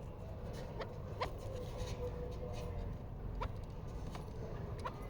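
Chukar partridges making short, sharp clicking sounds at irregular intervals, about one or two a second, over a low steady rumble.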